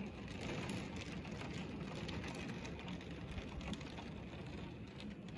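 Heavy thunderstorm rain pouring down on pavement in a steady, unbroken hiss.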